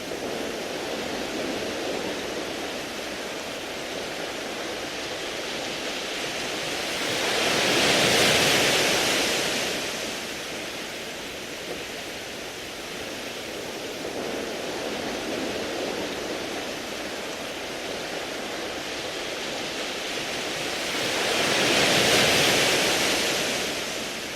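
Sea waves washing over a beach of smooth round pebbles: a steady surf wash, with two bigger waves swelling up and falling away, one about a third of the way in and one near the end, each bringing a loud hiss of water and rolling pebbles.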